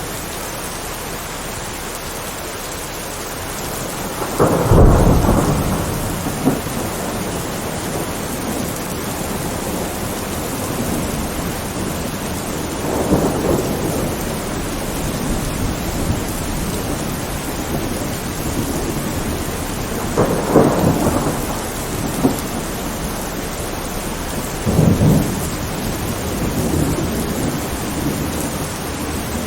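Steady rain with thunder rolling through it four times, the loudest rumble about five seconds in and lighter ones near the middle and toward the end.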